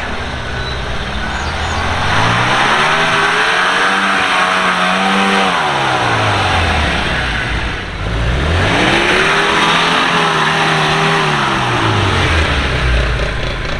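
Off-road 4x4's engine revving up, holding high and dropping back, twice: once about two to seven seconds in, and again from about eight to twelve seconds in.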